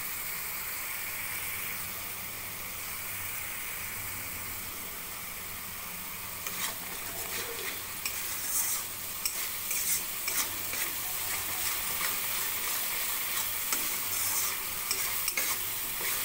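Spice paste of onion, ginger, garlic and chilli with turmeric and salt sizzling steadily in hot oil in a metal kadai, being sautéed over a medium flame. A metal spatula scrapes and clicks against the pan, more often from about halfway through.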